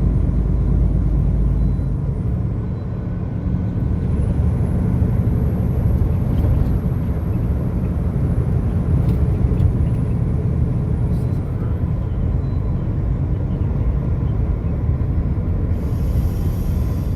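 Steady road and engine rumble of a vehicle driving on the highway, with a brief hiss of about a second near the end.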